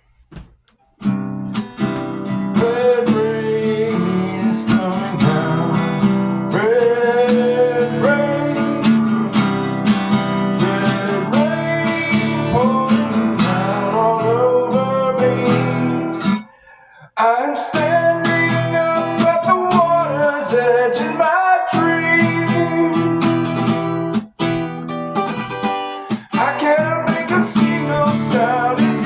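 Acoustic guitar being played, strummed chords and picked notes, starting about a second in. It stops briefly about sixteen seconds in before the playing resumes.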